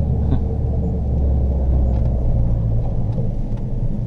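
Steady low drone of a car driving, heard from inside the cabin.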